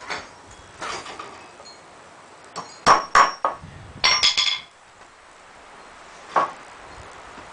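Work on a wooden 2x4 frame: two sharp knocks about three seconds in, then a metallic clink with a short ring a second later, and a lighter knock near the end.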